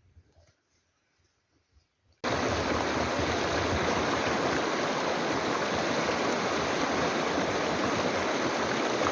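Steady rush of fast-flowing mountain stream water. It starts abruptly about two seconds in, after a moment of near silence.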